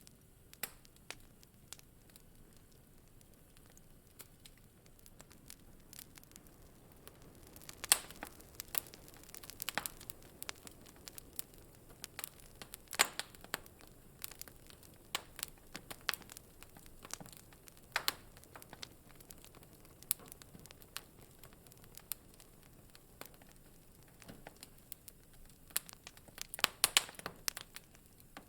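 Wood fire crackling in a fireplace: irregular sharp pops and snaps over a soft low hiss, with small clusters of louder pops about a third of the way in, near the middle and near the end.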